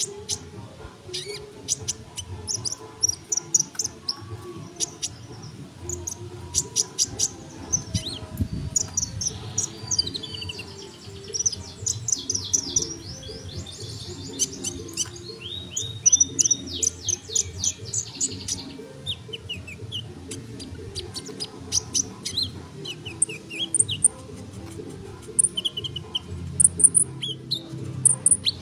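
Sunbird singing almost without pause: a dense string of high, quick chirps and rapid trills.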